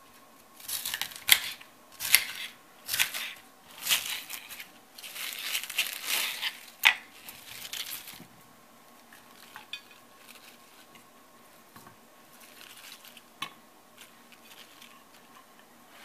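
Knife cutting through crisp bok choy stalks on a cutting board: a run of crunching cuts for about eight seconds, with a sharp knock of the blade near the middle, then only a few light clicks.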